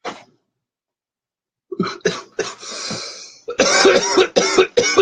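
A man coughing after drawing in cannabis smoke: a few coughs and a long breath out, then a fast run of coughs in the last second and a half.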